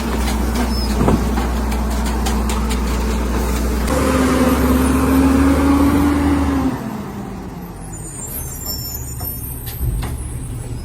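Garbage truck running with a heavy low engine rumble. About four seconds in, a steady whine joins it; near seven seconds both drop away and the truck sounds quieter, with a single knock near the end.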